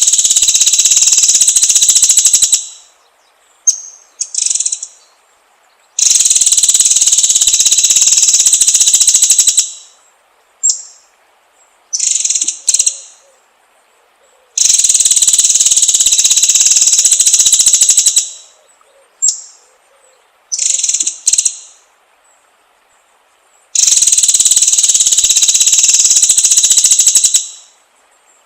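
White-rumped shama (murai batu) bait song: a loud, fast, rattling high trill of about three and a half seconds, followed by a few short calls. The phrase repeats about every eight to nine seconds.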